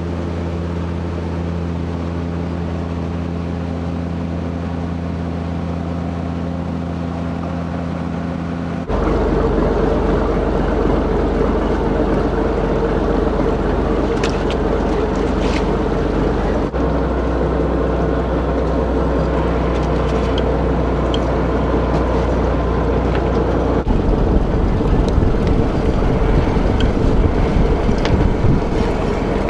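Fishing boat's engine running steadily. About nine seconds in the sound jumps abruptly louder and rougher, and it changes suddenly again twice more, near the middle and about two thirds of the way through.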